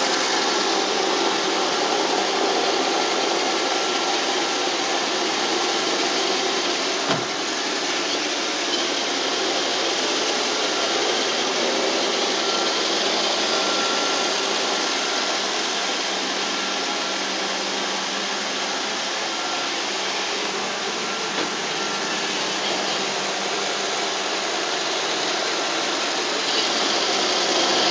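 iRobot Roomba 760 robot vacuum running its cleaning cycle: a steady whirring, brushing noise from its vacuum motor and brushes. A single sharp knock comes about seven seconds in.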